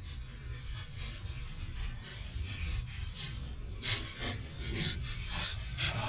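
Rough scraping and rubbing noises over a steady low rumble, with the scraping becoming busier and more broken about four seconds in.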